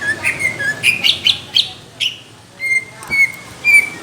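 Green leafbird (cucak ijo) singing a fast string of loud chirps and whistled notes. It pauses briefly about halfway through, then gives a few longer, level whistles.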